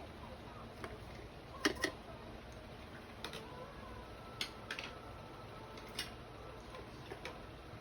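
Light, sharp clicks and taps, about seven of them at uneven intervals, two close together near two seconds in: a paintbrush knocking against a watercolour palette and water cup while paint is mixed.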